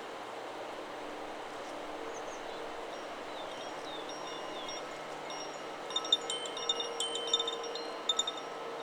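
Chakra Chimes 'Solar Plexus' wind chime: a few faint ringing tones, then about six seconds in a flurry of clinking strikes from the clapper that ring on for a couple of seconds. Under it runs a steady rush of wind through the trees.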